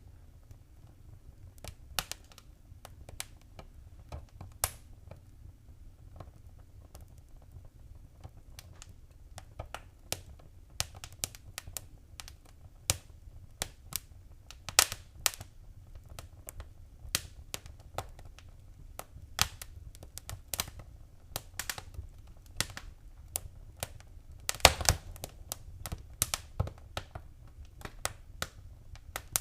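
Fire crackling in a fireplace: irregular sharp pops and snaps over a low steady rumble, the pops sparse at first and coming more often from about a third of the way in, with a burst of louder pops near the end.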